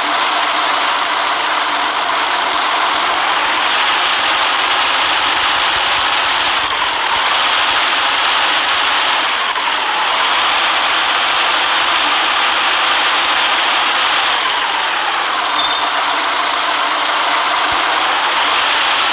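City bus on the move in the rain: steady engine and wet-road noise, with a soft swell that repeats about every two and a half seconds.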